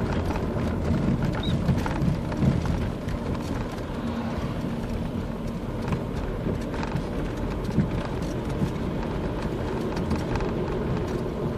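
Steady engine and road noise inside a moving car's cabin, with a few scattered faint ticks.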